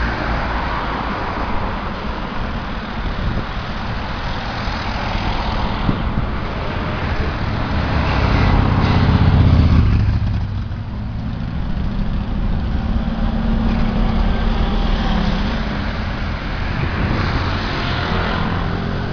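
Scania OmniCity city bus's diesel engine running with road noise, the engine sound swelling to its loudest about halfway through and then easing off.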